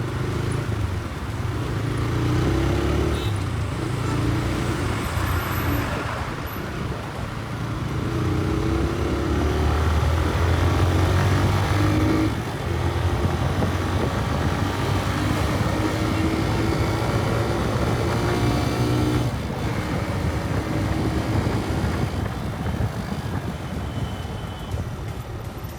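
Raider motorcycle's engine and exhaust under way, its pitch climbing as it accelerates and dropping sharply twice, at gear changes or throttle lifts, with road and wind rush.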